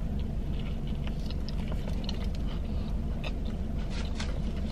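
A person biting into and chewing a soft meatball sub with lettuce and mayonnaise, making small wet mouth clicks, over a steady low hum.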